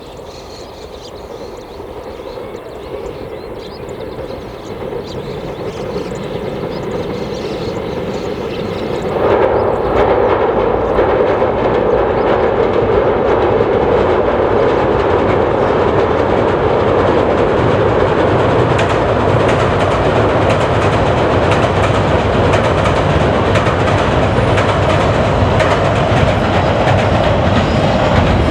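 A commuter train approaching and running past on the track, growing steadily louder and then suddenly much louder about nine seconds in, with a steady rolling rumble and the clickety-clack of wheels over rail joints.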